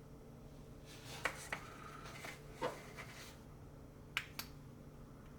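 A few light clicks and taps from small hand tools and the jig being handled during close bench work, with two sharp ticks close together about four seconds in, over a faint steady hum.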